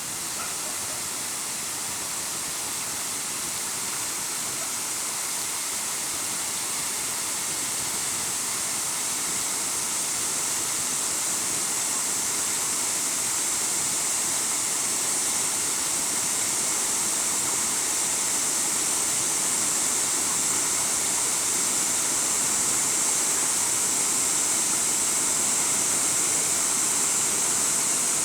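Waterfall rushing: a steady, dense hiss of falling water that grows slowly louder.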